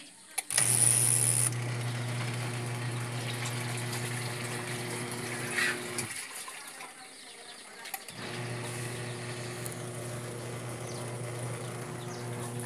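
Washing machine running water, a steady electric hum under rushing water, with a brief hissy surge as it starts. It runs for about five seconds, stops for two, then starts again.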